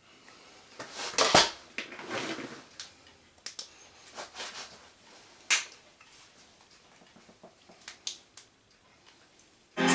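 Scattered clicks and knocks of a plastic DVD case and disc being handled, with a sharp snap about a second and a half in and another at about five and a half seconds.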